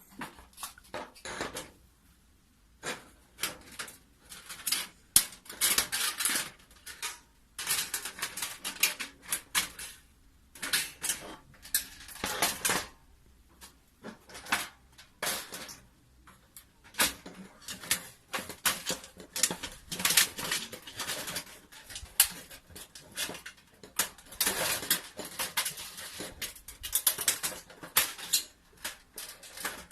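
Thin stainless-steel sheet panels and stainless rods of a homemade fire pit being handled and fitted together: bursts of rapid light metallic clicking and crinkling, with short pauses between them.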